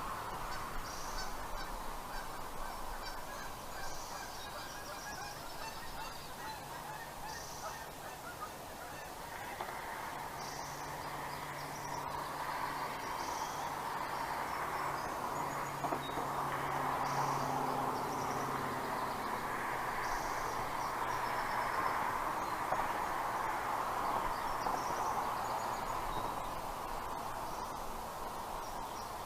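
Many birds calling at once, a dense steady chatter, with a short high call repeating about every second and a half. A low steady hum comes in about six seconds in and fades out after about twenty seconds.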